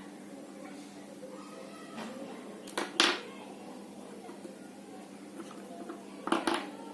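Coloured pencil rubbing on paper in a few short, scratchy strokes, the loudest about three seconds in, over a steady low hum.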